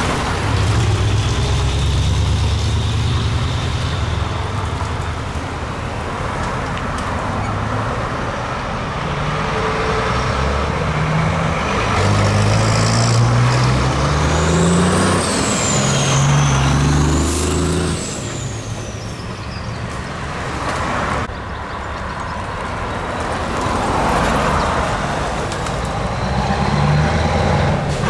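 Heavy diesel trucks driving past in convoy, their engines pulling up through the gears in repeated rising steps. A faint high whistle rises and falls midway.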